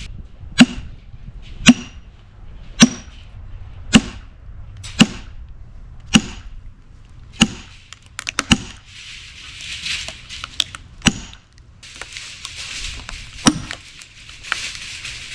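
Sledgehammer striking a steel splitting wedge driven into an oak round, with sharp, ringing blows about once a second that slow and thin out in the second half as the round starts to split.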